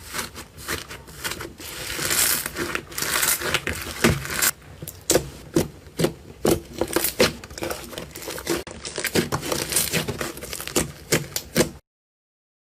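Slime being squeezed and worked by hand, a dense run of sticky clicks and crackling pops; the sound cuts off abruptly near the end.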